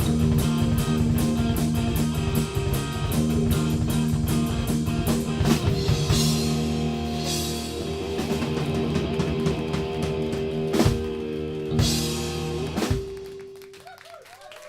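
Live rock band with electric guitars, bass and drum kit playing to the close of a song. A driving beat gives way to held chords punctuated by a few drum and cymbal hits, and a final hit rings out and fades near the end.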